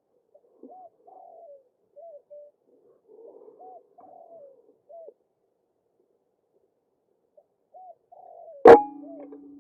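White-breasted waterhen (ruak-ruak) calling, a steady string of short rising-and-falling notes. Near the end a single loud sharp air-rifle shot cuts in.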